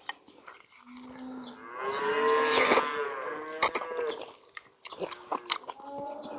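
A cow mooing: one long, drawn-out moo about two seconds in, with a shorter low call just before it. Scattered small clicks follow near the end.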